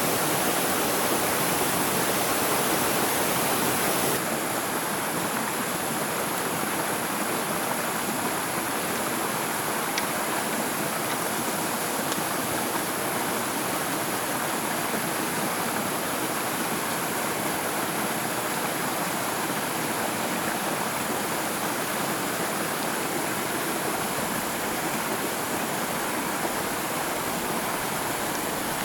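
A stream rushing in a steady, continuous wash of water noise. It drops slightly in level about four seconds in.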